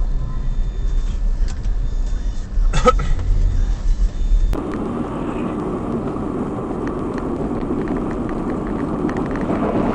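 Car driving noise as heard by a dash camera: a low rumble with a sharp knock about three seconds in, then an abrupt switch to a steady rushing road and wind noise.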